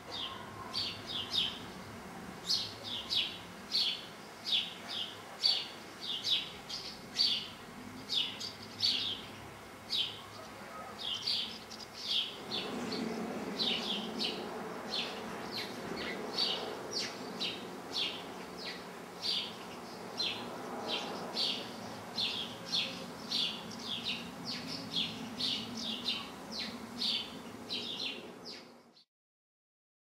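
A small bird chirping over and over, short high chirps about twice a second. A low background rumble comes up about twelve seconds in, and everything cuts off suddenly near the end.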